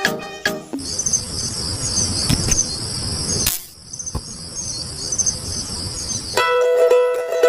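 Crickets chirping in a steady high trill over a low rumble, breaking off briefly a little past the middle. Plucked-string music comes in near the end.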